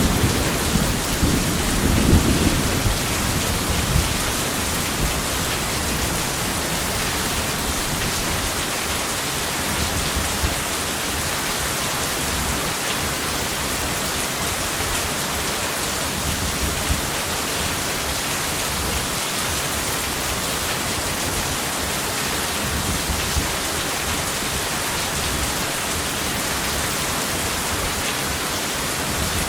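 Steady heavy rain with a roll of thunder rumbling through the first few seconds and dying away, then unbroken rain alone.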